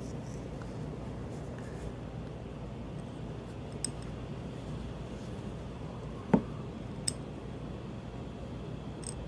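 Small metal folding-knife parts and tools being handled, giving three light clicks, the loudest a single ringing tap about six seconds in, over a steady low background noise.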